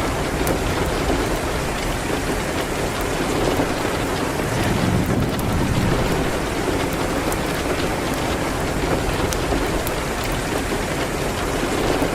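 Steady rain on a window mixed with the sharp crackles and pops of a wood fire. A low rumble swells about five seconds in.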